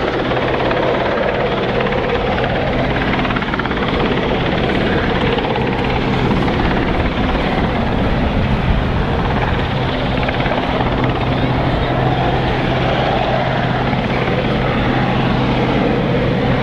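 Westland Sea King helicopter in flight: steady rotor and twin-turboshaft engine noise, with a constant low hum under a dense wash of blade and turbine sound and no change in level.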